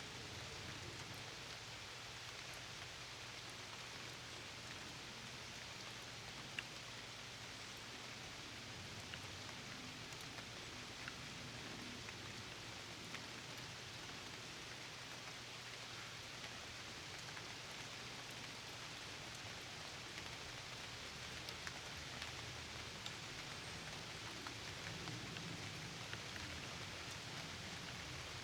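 Steady rain falling, with scattered single drops ticking louder now and then.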